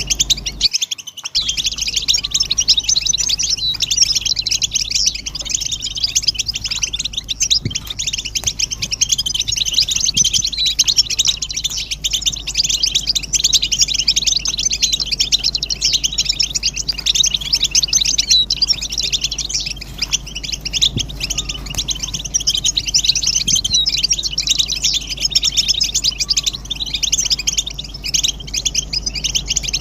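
A dense chorus of many European goldfinches twittering and singing at once, quick chirps overlapping without a break; group mating calls of the kind used to stir male goldfinches into song. There is a brief gap about a second in.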